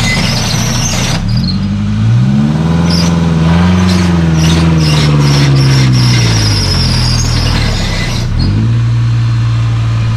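Off-road buggy's engine revving under load in deep mud. The pitch climbs about two seconds in, holds, then sinks and settles to a steady lower running note near the end.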